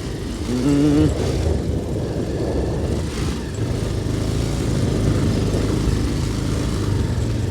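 Motorcycle engine running steadily while riding, with road and wind noise, and a brief voice-like sound about a second in.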